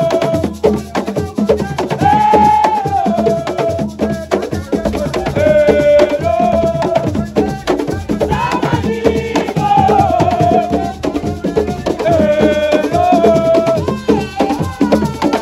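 Assiko music: a voice sings short repeated phrases over dense, fast drumming with sharp clacking percussion strokes.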